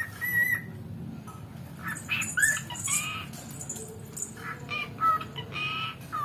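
Pet cockatiel whistling and chirping in a string of short pitched calls, with a brief steady whistle near the start.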